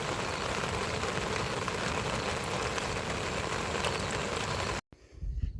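Steady rain falling: an even, dense hiss that cuts off abruptly near the end.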